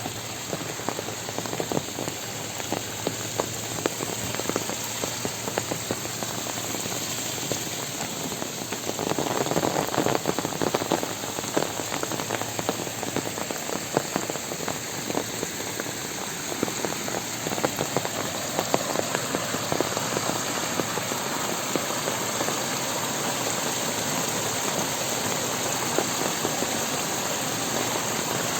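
Heavy rain falling, a dense patter of countless drops on surfaces, swelling louder for a few seconds about a third of the way in.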